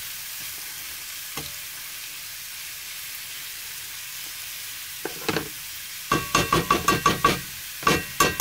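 Sausage, peppers, onion and mushroom sizzling in a cast iron skillet while a spatula stirs and scrapes them. In the last third the spatula knocks against the pan in a quick run of ringing clicks, about six a second, with a few more just before the end.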